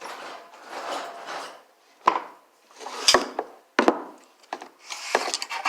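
Garage door opener rail sections being taken out of their cardboard box and handled: scraping and rubbing for the first second and a half, then a run of about five knocks and clunks with more rubbing between them.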